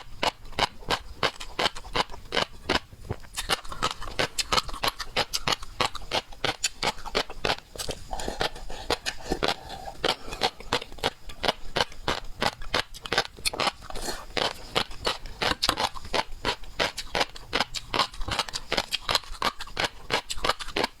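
Close-miked eating of seafood: a steady run of wet clicks and crunches from chewing, several a second.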